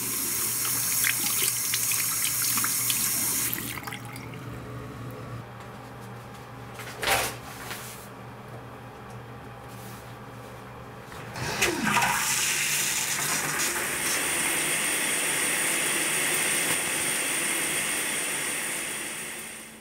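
Water running, twice: a short run of about three seconds, a knock partway through the pause, then a longer run of about eight seconds that cuts off near the end.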